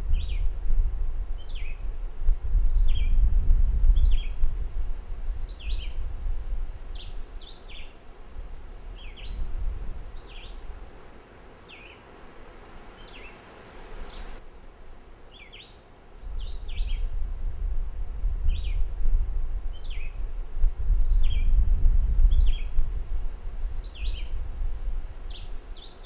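A bird calling over and over in short, downward-sliding chirps, roughly one a second and often paired. A low rumble comes and goes beneath it, strongest at the start and again from about two-thirds of the way in.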